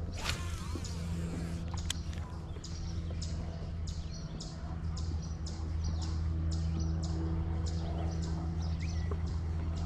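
A small bird chirping over and over, a few short calls a second, over a steady low motor-like hum.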